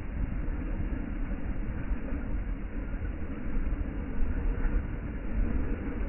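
Ocean wind and surf: a steady low rumbling noise without breaks.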